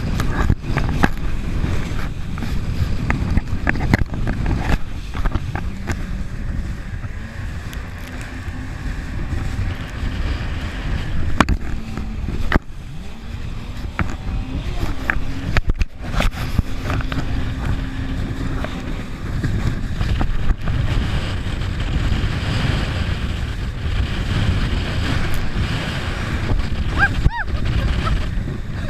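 Jet ski running on the water: a faint engine hum under heavy, steady rumbling noise, with many short knocks.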